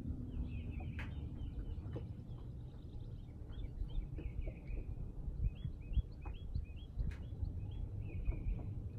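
Songbirds singing, short chirps and quick repeated phrases, over a steady low background rumble, with a couple of sharp clicks.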